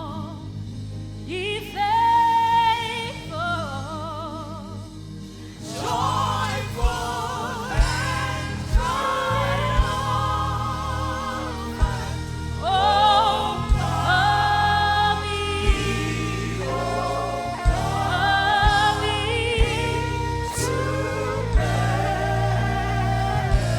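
Gospel-style worship singing. At first a lone voice sings with wide vibrato over soft backing. About six seconds in, a bass and a kick drum come in under the singing voices, the kick thudding every second or two.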